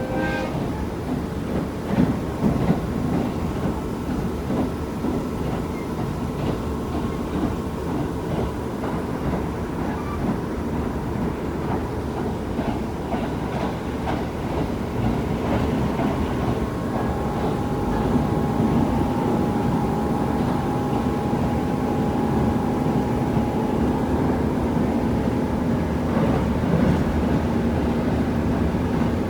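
KiHa 75 diesel multiple unit running along the line, its wheels clicking over rail joints. About two-thirds of the way through, a steady hum comes in and the sound grows louder.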